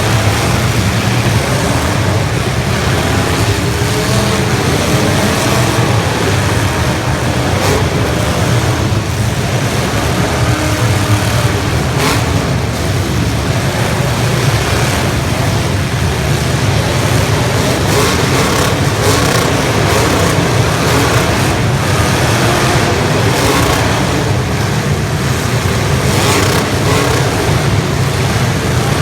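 Demolition-derby cars' engines running and revving together, loud and unbroken, with a few sharp bangs of cars crashing into each other.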